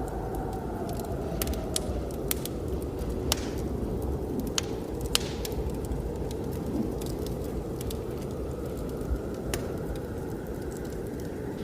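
Wood fire crackling, with scattered sharp pops, over a steady low rush of blizzard wind. A faint whistle in the wind falls in pitch over the first few seconds.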